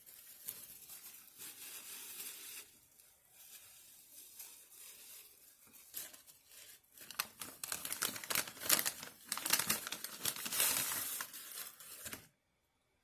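Crinkling and rustling of takeout food packaging being handled and torn, in irregular bursts of crackles, heavier in the second half, stopping abruptly near the end.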